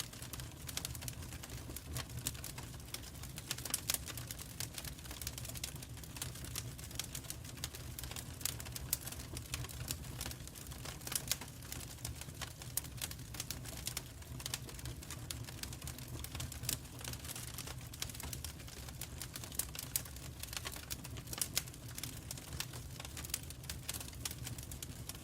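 Wood fire crackling in a fireplace: dense, irregular snaps and pops over a low steady rumble.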